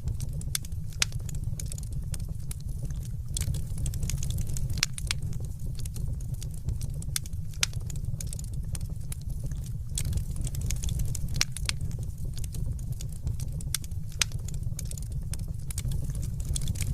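Fireplace fire crackling, with many irregular sharp snaps and pops over a steady low rumble.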